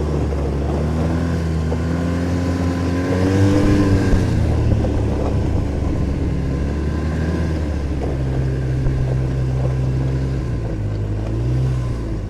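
Arctic Cat snowmobile engine running under way. It speeds up briefly about three seconds in, then runs steadily, with a slight easing near the end.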